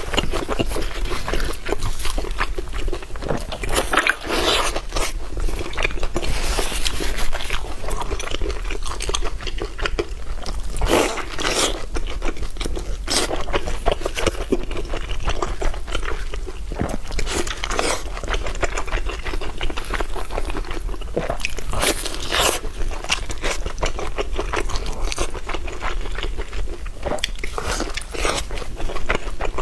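A person eating close to the microphone: irregular crunching bites and steady wet chewing of noodles with fried tendon.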